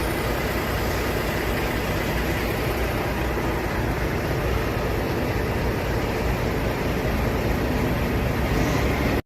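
Semi-truck's diesel engine running with a steady low drone.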